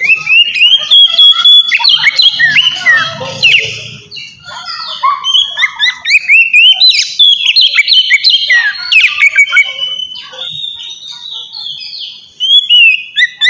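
Oriental magpie-robin (kacer) singing a loud, fast, varied song of clear whistles, rising and falling glides and sharp clicks. The song breaks off briefly twice. This is the full, open 'ngeplong' style used to provoke rival kacer.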